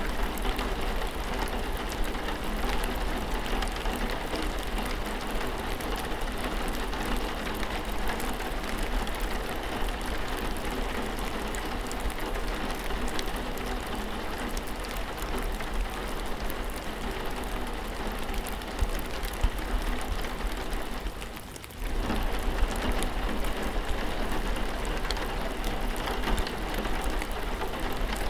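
Steady rainfall with a dense patter of individual drops. It dips briefly about three quarters of the way through, then carries on as before.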